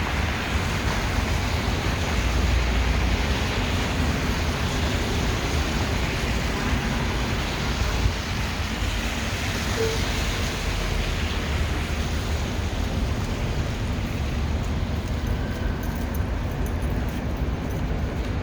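Steady city street traffic: cars passing in a continuous hiss and rumble.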